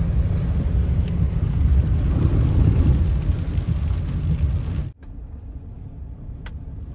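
Low, steady rumble of a truck driving, heard from inside the cab, with a noisy haze over it; about five seconds in it cuts off abruptly to a quieter, steady low hum with a few faint clicks.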